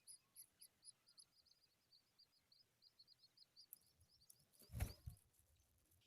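Skylark nestlings begging: a rapid run of short, high, thin chirps, several a second, that fades out after about four seconds. Just before five seconds in comes a brief, louder bump.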